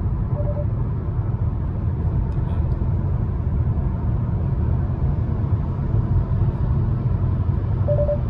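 Steady road and engine rumble inside the cabin of a moving Hyundai Elantra. The lane departure warning gives short beeps about half a second in and again near the end, warning that the car has drifted out of its lane.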